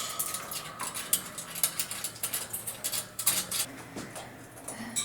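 Irregular clicks and short rattles of bird toys and their hanging hardware being handled in a parrot cage.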